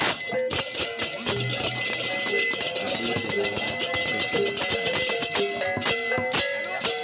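Balinese gamelan music: metal-keyed instruments play short stepped notes over fast, dense metallic strikes, with a steady high bell-like ringing throughout.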